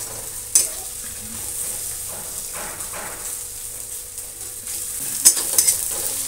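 Chopped onion and garlic sizzling in ghee in a steel kadai, stirred with a metal spatula that scrapes and knocks against the pan. There is a sharp knock about half a second in and a quick cluster of knocks near the end.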